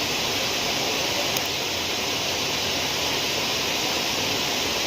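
Steady rush of water in heavy monsoon rain: an even, unbroken hiss with no letup.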